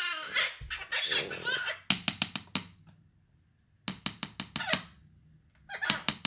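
Mini macaw vocalizing: a squawky, voice-like chatter, then runs of rapid staccato calls like mimicked laughter.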